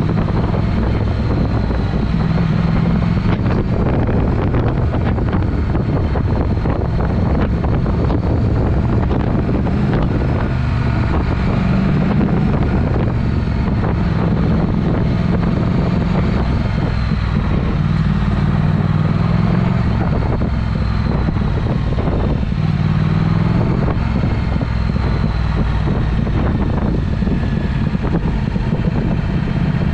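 Triumph Speed Twin's 1200 cc parallel-twin engine running through an aftermarket Vance & Hines exhaust while riding. The engine note rises and falls several times with throttle and gear changes.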